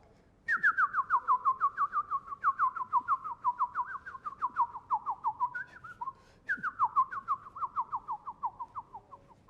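Bird song: rapid series of short, downward-slurred whistles, about five a second, the series gradually falling in pitch. It comes in two phrases, the second starting a little past the middle.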